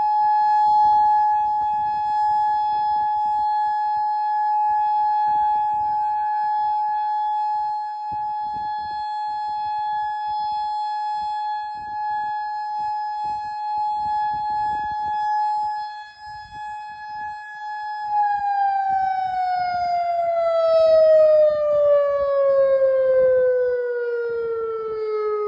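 Federal Signal Modulator outdoor warning siren sounding a loud, steady tone for a tornado warning, swelling and fading in loudness. About eighteen seconds in, its pitch starts falling steadily as the siren winds down.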